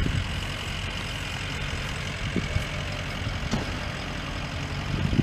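Steady low rumble and hiss of outdoor background noise, with a few faint knocks.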